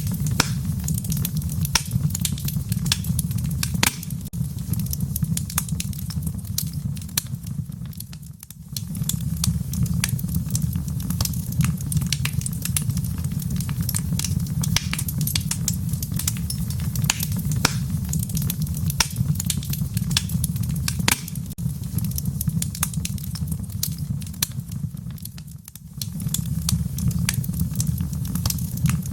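Fire burning in a fireplace: a steady low rumble of flames with frequent sharp crackles and pops. It dips briefly in loudness twice.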